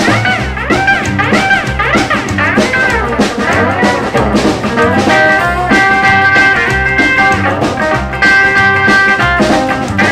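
Instrumental break in a rock and roll song: lead guitar playing bending, sliding notes for the first few seconds, then held notes, over a steady drum beat.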